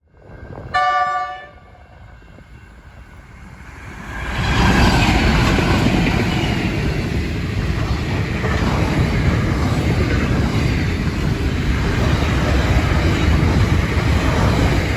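NR class diesel-electric freight locomotives give one short horn blast about a second in, then the train passes at line speed: a loud, steady rumble of the engines and the wheels on the track, starting about four seconds in.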